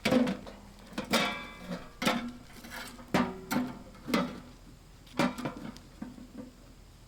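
Hard objects being handled and set down, giving about ten knocks and clanks, some with a brief metallic ring, typical of rummaging through camping gear.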